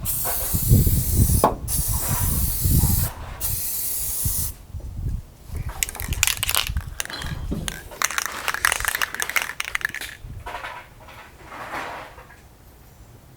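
Semi-gloss paint being sprayed: a steady spray hiss with two brief breaks over the first four seconds or so, then shorter, choppier spurts of spraying that die away near the end.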